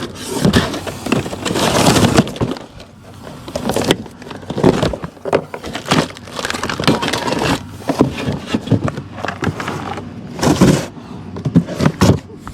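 Packaging being torn and pulled open by hand: irregular crackling, ripping and crunching bursts with no steady tone, as a tightly packed box holding a replacement fan is forced open.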